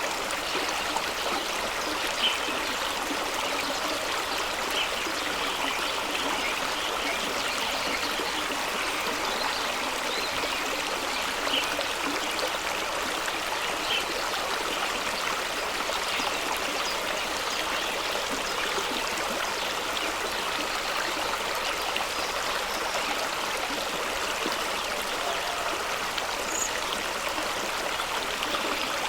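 Fast-running stream rushing and splashing over rocks below a small waterfall, a steady even rush with small splashes.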